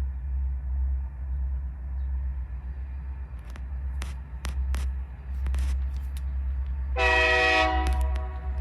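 Union Pacific diesel locomotive rumbling low and steady, with a run of sharp clicks and knocks from the train starting a few seconds in. Near the end it gives one short horn blast, under a second long, the loudest sound here.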